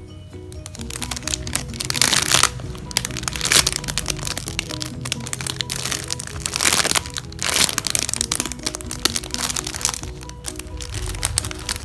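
Background music with a light, repeating melody over crinkling and crackling as squishy toys are squeezed and handled, with several louder bursts of crackle.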